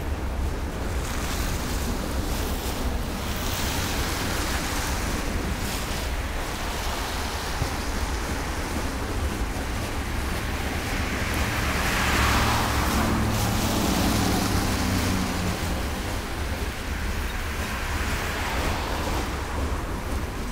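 Freight train's covered hopper cars rolling steadily past, a continuous rumble, with wind buffeting the microphone. A car passes on the road about twelve seconds in, swelling and fading.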